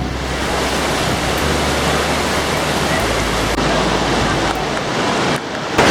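Steady, loud rush of falling water, like a rainforest waterfall or stream, with a low rumble underneath; it drops away briefly just before the end.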